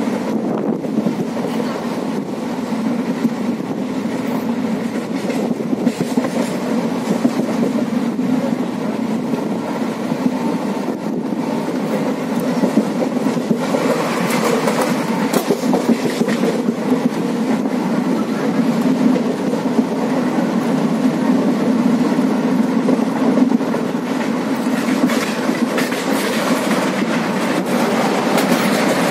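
Train running at speed, heard from aboard: a steady rumble with irregular clicking from the wheels on the track.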